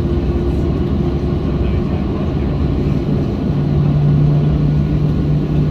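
Steady cabin rumble inside a Boeing 737-700 airliner during pushback, with a low steady hum that comes in and gets louder about three and a half seconds in.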